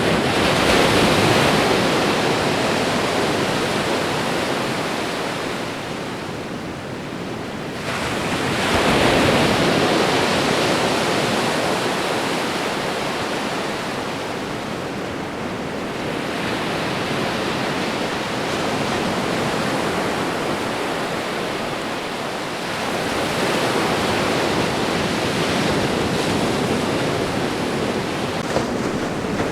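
Ocean waves washing on a shore, a continuous surf roar that swells with a breaking wave at the start, again about eight seconds in and again near the last quarter.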